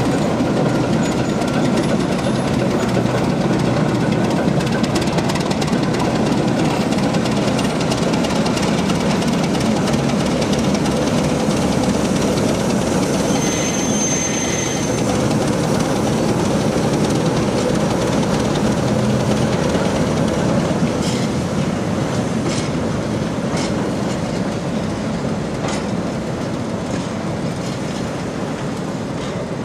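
Freight train hauled by an ČKD-built T669 diesel locomotive moving slowly past, its six-cylinder diesel engine running as it goes by, then the wagons rolling through with wheels clacking over rail joints. A short high wheel squeal comes about halfway through, and sharper clicks follow in the later part as the sound slowly fades.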